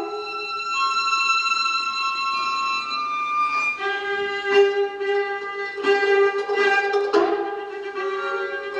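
Music from a bowed string instrument holding long notes, with a few sharper note attacks in between.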